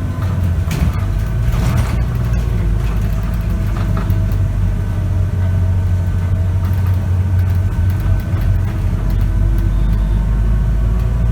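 Scania K94UB bus's diesel engine and ZF automatic drivetrain running steadily, heard from inside the bus, with a low drone and a faint steady whine. A few knocks and rattles come between about one and two seconds in.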